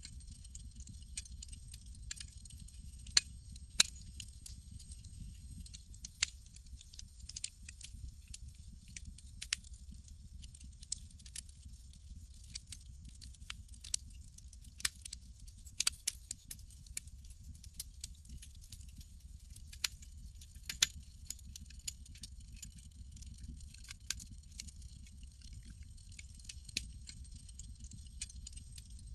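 Campfire crackling: irregular sharp pops and snaps of burning wood, a few much louder than the rest, over a steady low rumble and hiss.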